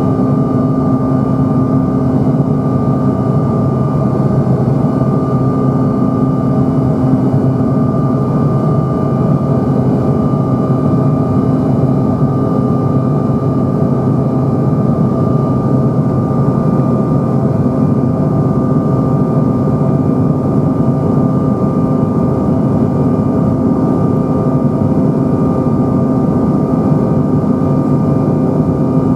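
Jet engine noise heard inside the cabin of a Bombardier CRJ-900 with its rear-mounted turbofans: a loud, steady drone with a constant whine over it.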